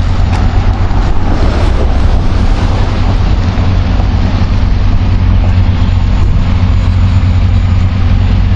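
Heavy truck engine idling nearby, a deep, steady drone.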